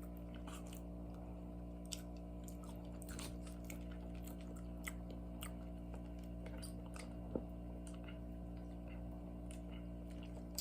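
A person chewing a chicken sandwich close to the microphone, with small mouth clicks scattered throughout, over a steady low hum.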